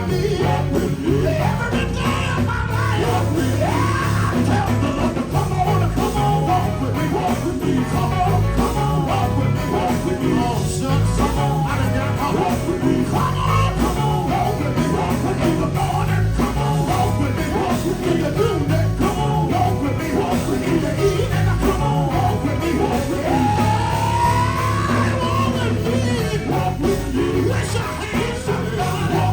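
Live gospel band music: electric guitar, bass and drums playing at a steady beat, with singing over it. About 24 seconds in, one line rises in pitch, like a guitar bend.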